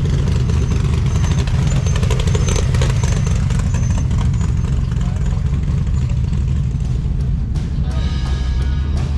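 A car engine running at idle, a steady low rumble, with music and voices in the background.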